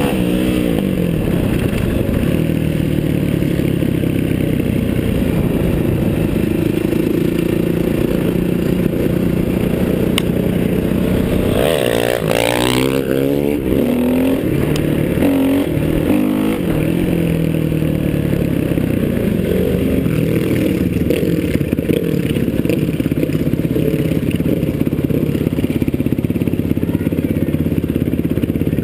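Flat-track racing motorcycle engine running hard, heard from a GoPro riding along, its pitch rising and falling again and again as the throttle is rolled on and off. About twelve seconds in there is a brief louder, higher-pitched rev.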